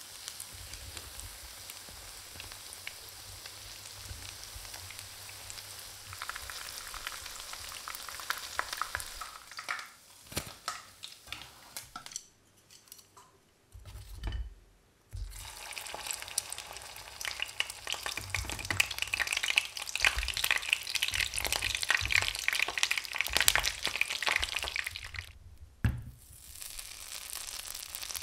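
Batter-coated chicken wings shallow-frying in hot oil in a pan, sizzling and crackling steadily. There are a few sharp knocks about ten seconds in and the sizzle drops away for a few seconds after that. It then comes back louder and busier, with dense crackling.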